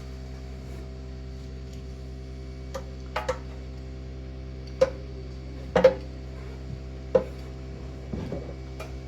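Scattered sharp clicks and light knocks, about six, from a hose and fuel-tank fittings being handled and pushed into place on a tiller, over a steady hum.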